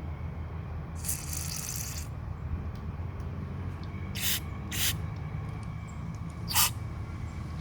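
Aerosol carburetor cleaner sprayed into a gummed-up throttle body: one hiss of about a second near the start, then three short blasts later on. A steady low hum runs underneath.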